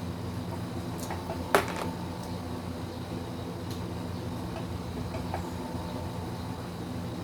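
Steady low machine hum, with one sharp click about a second and a half in and a few faint clicks.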